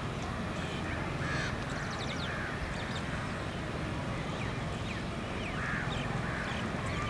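Many birds calling: scattered short calls and higher chirps overlapping, over a steady low background rumble.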